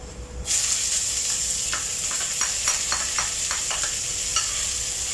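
Sliced green chillies hitting hot oil and fried garlic in a wok, setting off a sudden sizzle about half a second in that keeps going steadily. Through the middle there is a quick run of light taps from the wooden spatula scraping the chillies off the plate.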